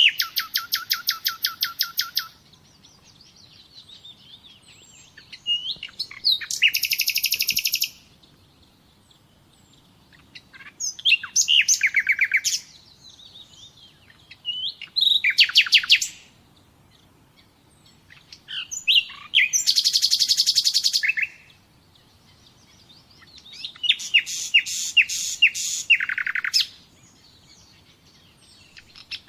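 A songbird singing short, fast trilled phrases, one every four seconds or so, with faint chirps in the gaps.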